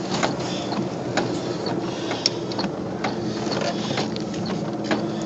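Car interior with the engine running: a steady low hum, with light ticks and taps scattered irregularly on top.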